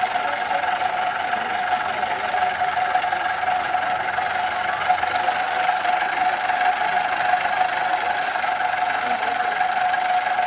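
IFA W50 truck's diesel engine running steadily at an even pitch.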